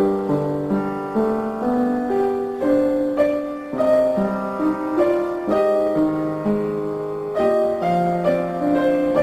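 Background piano music: a slow melody over held chords, its notes changing about every half-second.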